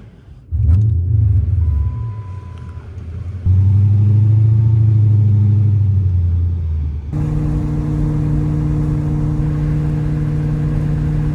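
Chrysler 300C's 5.7-litre HEMI V8 accelerating: a short rev about half a second in, then a longer pull of about three seconds. A brief steady chime-like tone sounds about two seconds in. From about seven seconds in there is a steady engine drone at cruise with road and wind noise.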